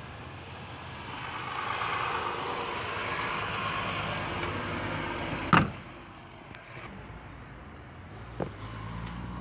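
Vehicle noise swells for a few seconds. About five and a half seconds in, a single sharp bang sounds, the cab door of a 1972 Scania 110 truck being shut, followed by a couple of light knocks.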